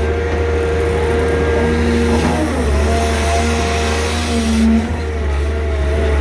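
Six-cylinder diesel engines of hydraulic excavators running hard under load, a low steady rumble with a whine that dips and shifts pitch about two seconds in.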